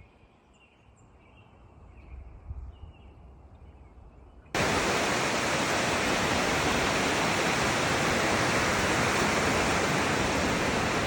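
Near-quiet snowy stillness for about four and a half seconds, then an abrupt cut to a steady, loud rushing noise that does not let up.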